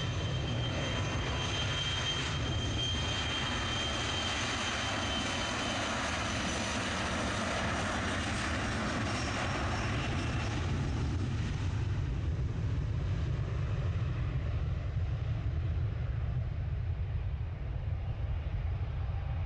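Jet airliner engines on the runway: a steady low rumble with a high whine that fades away over the second half as the aircraft draws off.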